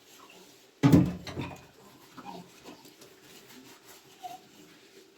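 A single short, loud animal cry about a second in, followed by faint scattered sounds.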